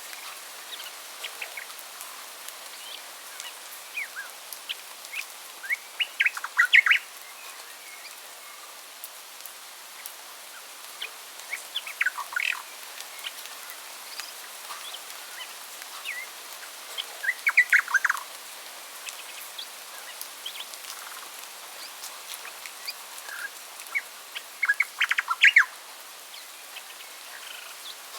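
Birds chirping in short clustered bursts of quick notes every five or six seconds, over a steady background hiss.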